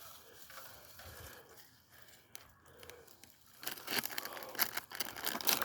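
Dry leaf litter and twigs crunching and crackling underfoot, starting a little after three and a half seconds in, following a quieter stretch.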